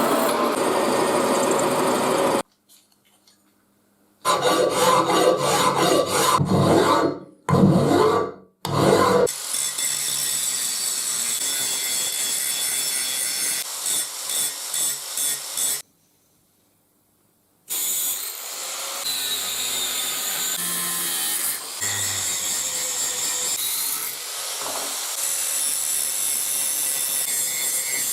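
Tools working a length of railroad track steel, with rasping, sawing-like strokes in several clips cut together, broken by two short silences.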